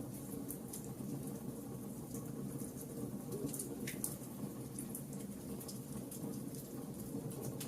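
Wood fire burning in a fireplace: a steady low rumble with scattered small crackles and pops, and one sharper snap about four seconds in.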